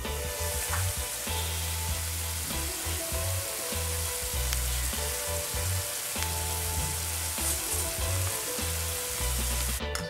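Diced apples frying in a pan of bubbling sugary syrup: a steady sizzling hiss that stops just before the end. Background music with a pulsing bass plays under it.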